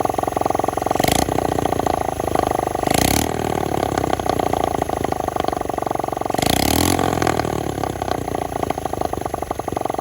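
Honda Monkey/Gorilla Z50J's small single-cylinder four-stroke engine running at idle, blipped up three times: about a second, three seconds and six and a half seconds in. It runs steadily between the revs, showing that the engine works.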